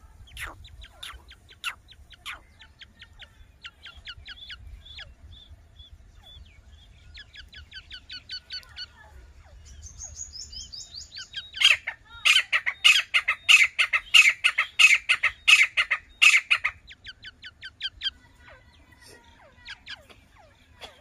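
Grey francolin chick about a week old, peeping in short, high, downward-sliding chirps. A loud, fast run of about eight chirps a second comes in the middle.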